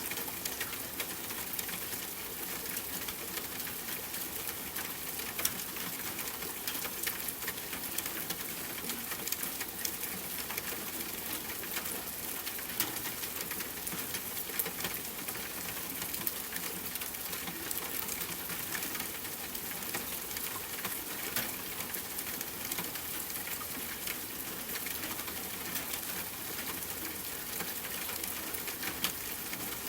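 Steady rain: an even hiss scattered with many small drop taps.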